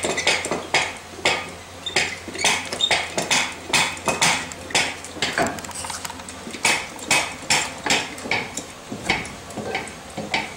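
Metal clanking: a quick run of sharp metallic knocks and clinks, about two to three a second, easing off near the end.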